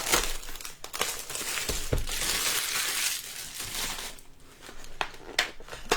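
Trading card packaging being opened and handled: foil pack wrappers and cardboard crinkling and tearing, with a few sharp clicks and a denser stretch of rustling about two seconds in.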